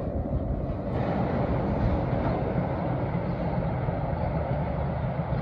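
An MBTA train running past with a steady low rumble.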